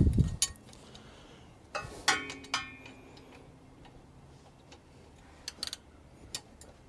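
Metal hand tools clinking and knocking against the seized engine. There are heavy knocks at the start, then a cluster of sharp clinks about two seconds in with a short metallic ring, and a few light clicks near the end.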